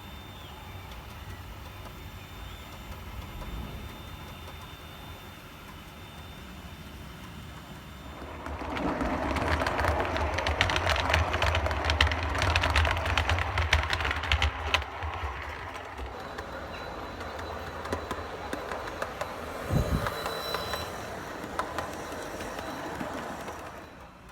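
O gauge model train running on the track, getting much louder about a third of the way in as it comes close, with its wheels clicking rapidly over the rail joints, then settling back to a steadier run with a single thump near the end.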